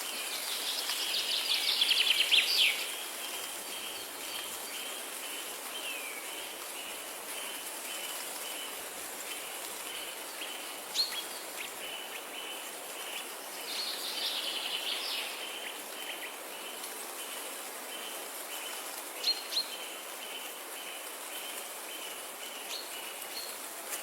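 Birds singing over a steady hiss of rain or running water: a loud trilling phrase right at the start and another about halfway through, a few sharp single chirps, and a steady pulsing chirp that repeats throughout.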